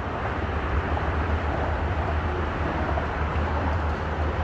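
Steady low rumble with an even hiss over it, unbroken and with no distinct events: outdoor background noise.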